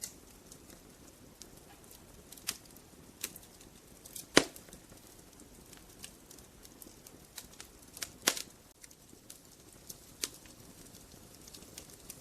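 Wood fire crackling, with irregular sharp pops over a low hiss; the loudest pop comes about four seconds in, and a close pair of pops a little past halfway.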